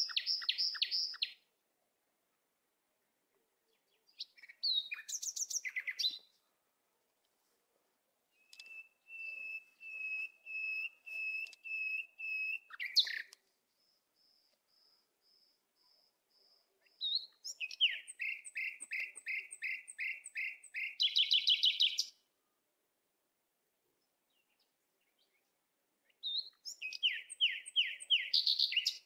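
A songbird singing in separate phrases a few seconds apart: fast trills, a run of evenly repeated whistled notes, and short chirps, with silence between phrases.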